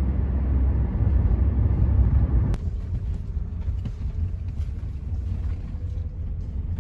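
Steady low rumble of a moving vehicle in transit, with one faint click about two and a half seconds in.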